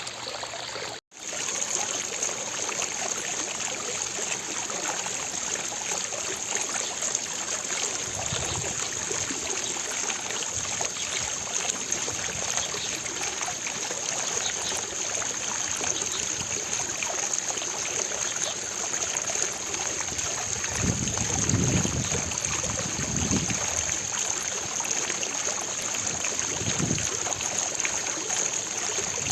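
Fountain water splashing and falling steadily into its basin. The sound drops out for an instant about a second in, and a few low rumbles come through near the end.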